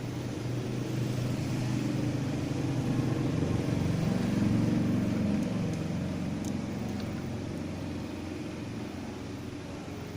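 A low engine hum that swells to its loudest about halfway through and then fades away, as of a motor vehicle passing by.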